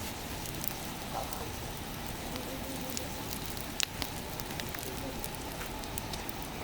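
Wood campfire crackling: scattered sharp pops and ticks over a steady hiss, with one louder snap about four seconds in.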